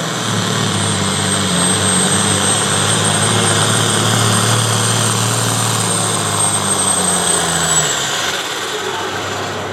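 Classic super stock pulling tractor running hard under load down the track, a steady engine note with a high, thin whistle above it. Both the engine note and the whistle drop away about eight seconds in as the pull ends.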